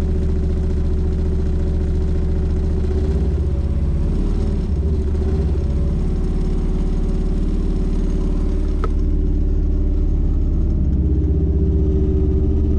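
Cammed Chevy small-block V8 in a 1983 C10 running cold, held at a slightly raised idle to warm up; the carburetor has no choke, and the engine stalls if the throttle is let off. Its speed wavers a few seconds in, then steadies and gets a little louder near the end.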